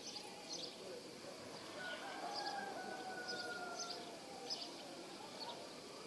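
Outdoor ambience with small birds giving short, high chirps every second or so. A distant drawn-out tone, slightly falling, runs for about two seconds in the middle.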